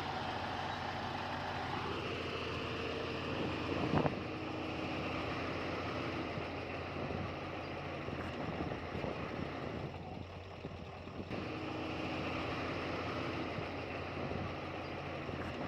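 Heavy diesel earthmoving machinery running steadily, with a single sharp clank about four seconds in and a brief easing of the engine partway through.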